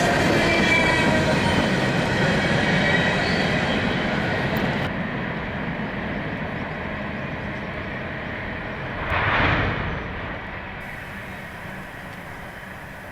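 Train rolling past, its wheels squealing thinly on the rails for the first few seconds, then the rumble fading away, with a brief burst of noise about nine seconds in.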